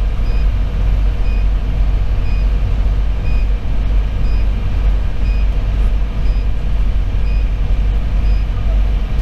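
Cab noise of a Pierce Velocity fire engine under way, its Detroit Series 60 diesel running with a steady low rumble over road noise. A short high beep sounds about once a second throughout.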